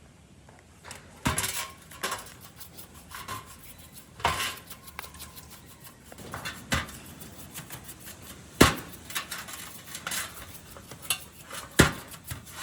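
Metal tools and parts clinking and knocking against each other at irregular intervals, with handling noise between, and one short ringing clink about four seconds in.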